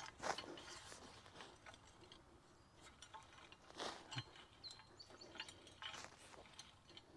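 Faint, scattered scratching and rustling of a five-tined pitchfork working loose bark mulch, the clearest strokes about a third of a second in and about four seconds in.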